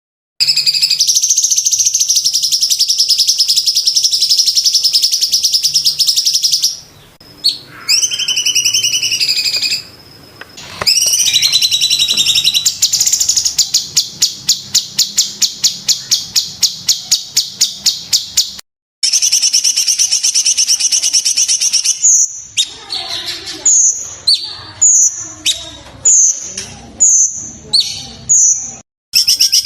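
A cucak cungkok songbird singing loud, high whistled phrases: long rolling trills, a fast run of sharp staccato notes, then a string of short downward-slurred whistles.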